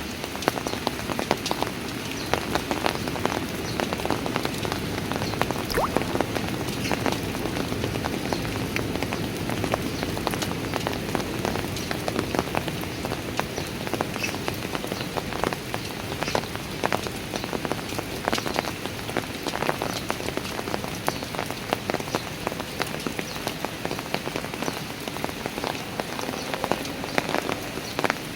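Steady rain falling on stone steps, with a constant hiss and many close, sharp drips and splashes of single drops.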